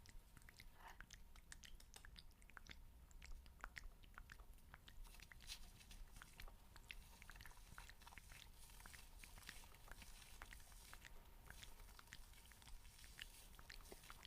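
Faint ASMR ear-cleaning sounds: many small, irregular crackling clicks and scratches from tools worked against the microphone.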